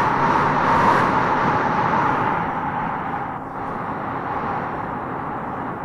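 Howling wind gusting: a steady rushing hiss with a whistling tone that sinks slightly in pitch, easing off a little about three seconds in.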